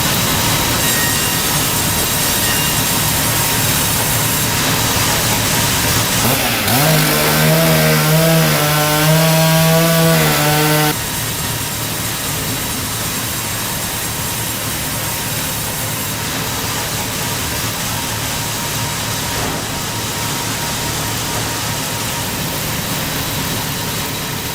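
Power saw cutting through wood, a dense and steady cutting noise. About seven seconds in, a pitched motor tone rises in and holds for a few seconds, then cuts off suddenly, leaving quieter cutting.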